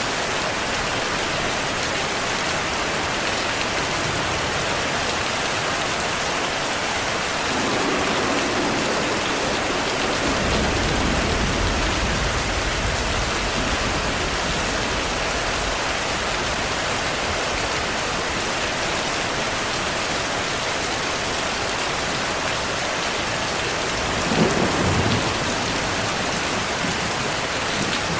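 Steady rain falling. About ten seconds in a low rumble of thunder rolls for several seconds, and near the end a sharper, louder thunderclap breaks over the rain.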